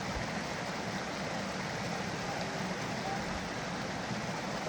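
Creek water running steadily, an even noise with no breaks.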